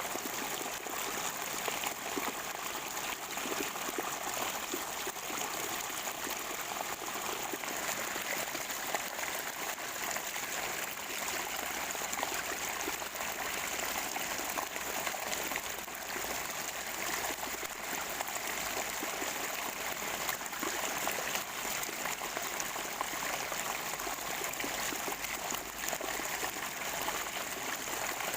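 Water from a natural spring gurgling and trickling steadily, an even rushing with no breaks.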